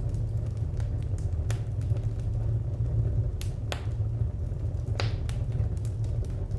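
Wood fire crackling: scattered sharp pops and snaps over a steady low rumble, with a few louder pops in the second half.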